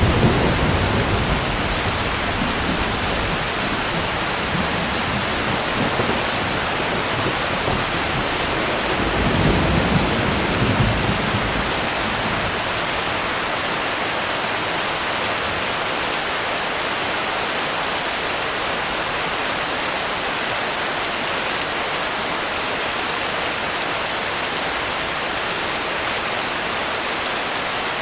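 Steady heavy rain, an even hiss throughout, with low rolling rumbles of thunder at the very start and again about nine to eleven seconds in.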